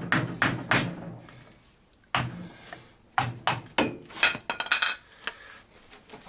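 Sharp metal knocks of a hammer on a car driveshaft's CV joint, working its rear cover loose for servicing. A few blows come early, one more a little after two seconds, then a quick flurry of them in the second half.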